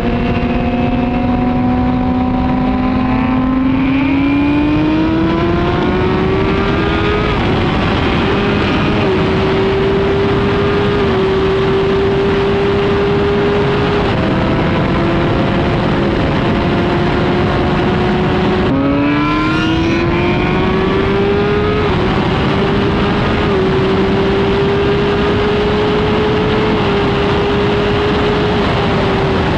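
Onboard sound of a Suzuki GSX-R1000R's inline-four engine through an Arrow exhaust, accelerating hard. The engine note climbs steeply about three seconds in, holds high through short dips at gear changes, drops sharply a little past the middle and climbs again, over a steady rush of wind.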